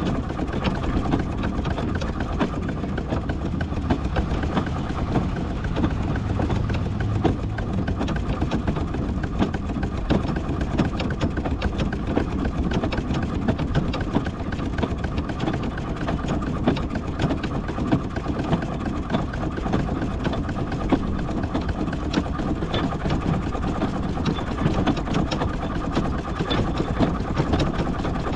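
Miniature steam traction engine running slowly in bottom gear, a steady mechanical clatter of rapid knocks with a low rumble underneath.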